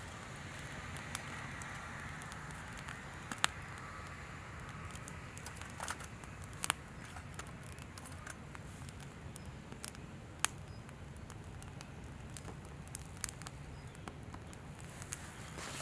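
Wood campfire crackling, with scattered sharp pops at irregular moments, the loudest about three and a half seconds in, over a steady low rumble.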